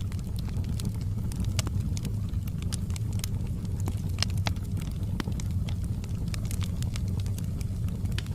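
Fireplace fire burning, with frequent irregular crackles and pops of burning wood over a steady low rush of flames.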